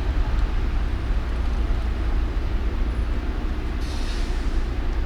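Steady low rumble of a car driving through city traffic, with a brief higher hiss about four seconds in.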